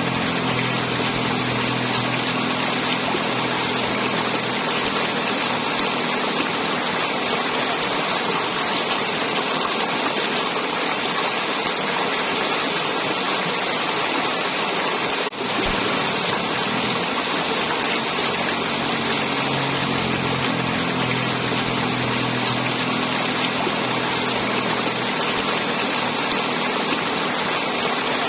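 River water flowing over rocks, a steady gurgling rush. A faint low hum comes and goes beneath it, and the sound dips briefly about halfway through.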